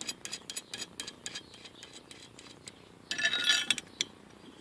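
Hand tools working a nut on threaded all-thread rod: quick, even metallic clicks, about four or five a second, for the first two and a half seconds. About three seconds in comes a short metallic clatter with some ringing, and near the end a single click.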